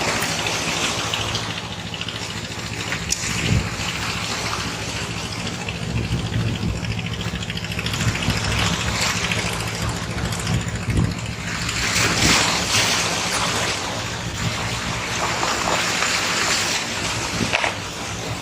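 Heavy rain and wind buffeting the microphone, a steady rushing noise that swells and eases, with a faint steady low hum underneath.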